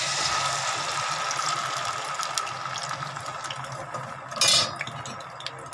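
Wet tomato puree hitting hot oil in a steel pan and sizzling, loud as it goes in and slowly dying down, with a brief louder burst of sizzle about four and a half seconds in.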